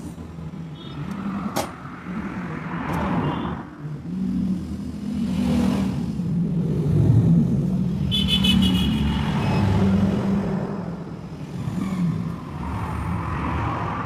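Low, uneven engine rumble of motor vehicles running nearby, with a few sharp clicks.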